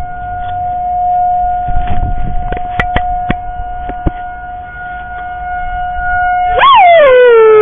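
Civil defense siren being tested, holding one steady wail, with a few knocks. About six and a half seconds in, a dog close by breaks into a loud howl that swoops up and then settles into a long held note.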